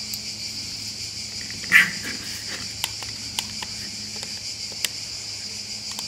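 Metal clicks and clinks of a folding hex-key (Allen key) set being handled and a key fitted into a small bolt: a few sharp ticks and one louder clink about two seconds in. A steady high-pitched whine runs underneath.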